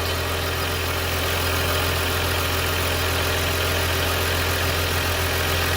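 Jaguar X-Type engine idling, heard through a garden hose held to the microphone at a leaking vacuum pipe, with a steady hiss from the vacuum leak over the low engine hum.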